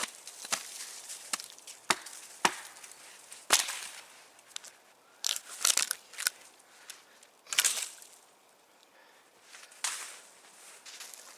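A machete chopping wood: a series of irregular sharp strikes, some coming in quick clusters.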